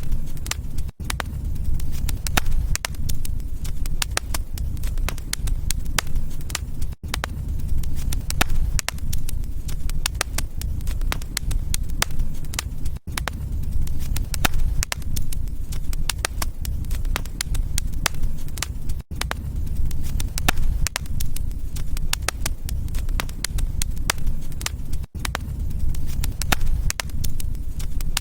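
Wood fire crackling in a fireplace: dense, irregular pops and snaps over a steady low rumble of flame. The sound cuts out for a split second about every six seconds.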